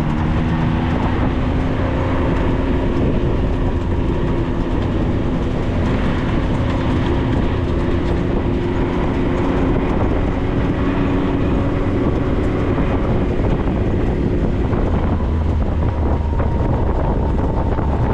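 A Maverick 4x4 being driven on a dirt trail: the engine runs at a steady note under a continuous rattle of the chassis and the rough ground. The engine note fades in the last few seconds.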